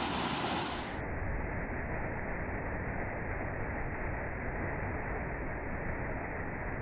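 Steady rush of a waterfall's cascades pouring over rocks, an even wash of water noise that turns duller about a second in.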